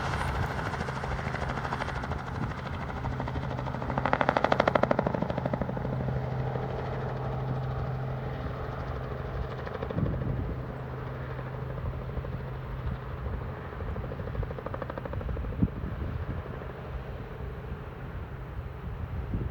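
An engine running steadily, a constant hum with a fast, even pulsing, swelling louder for about a second around four seconds in.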